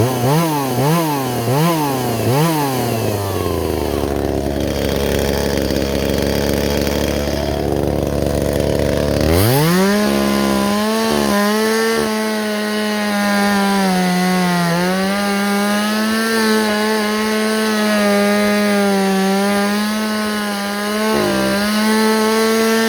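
Chainsaw engine blipped about four times in quick succession, then settling to a lower steady run. About nine seconds in it revs up to full throttle and holds there steadily, with slight dips in pitch.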